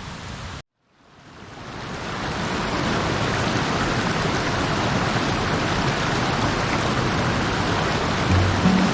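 Steady rushing water of a mountain stream, fading in after a moment of silence about a second in.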